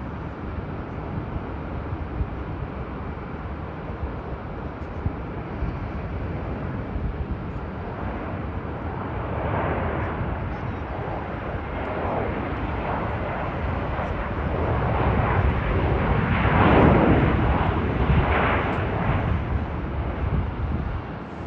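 SunExpress jet airliner coming in to land, its engines rumbling steadily and growing louder as it approaches, loudest about three quarters of the way through, then easing off slightly.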